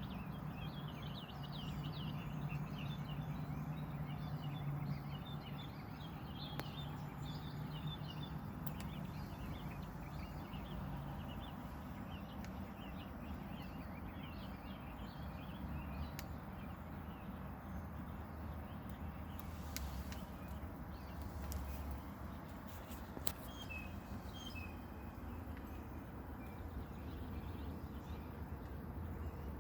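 Many small birds chirping and twittering, thick for the first dozen seconds and then only scattered calls, over a steady low hum. A few sharp clicks come about twenty seconds in.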